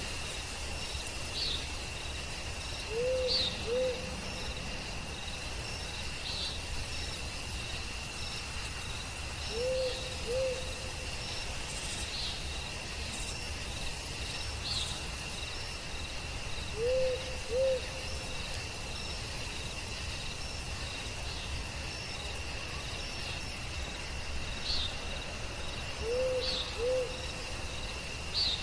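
An owl hooting in pairs of short hoots, four pairs about seven seconds apart. Under it runs a steady high drone of crickets, with scattered short high chirps.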